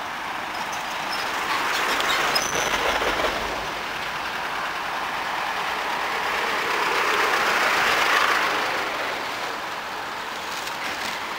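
Running noise of an electric train on nearby track, a rushing sound that swells about two seconds in and again around eight seconds, with a few light clicks during the first swell.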